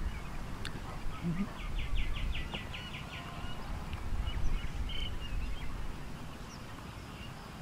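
Open-air background with a steady low rumble, and a bird calling a quick run of about ten chirps from about one and a half to three seconds in, then one short chirp near five seconds.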